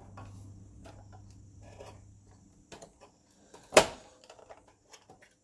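Scattered small clicks and knocks of a projector's parts being handled during a teardown, with one sharp, loud knock about four seconds in. A low hum underneath stops about halfway through.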